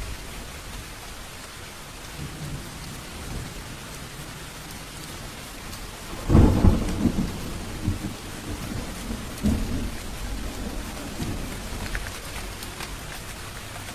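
Steady rain falling, with a loud clap of thunder about six seconds in that rolls on in several lower rumbles.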